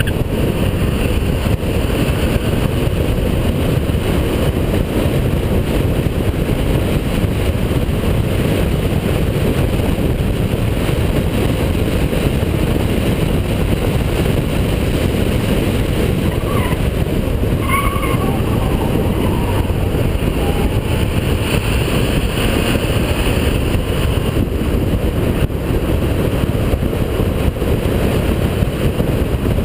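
Holden VP Commodore's 3.8-litre V6 running hard on a race circuit: a steady, loud mix of engine and road noise.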